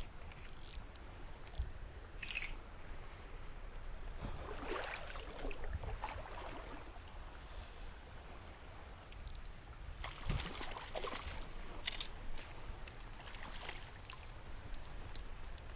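Stream water splashing and sloshing in irregular bursts, heaviest about a third of the way in and again past two-thirds, over a low steady rumble of wind on the microphone.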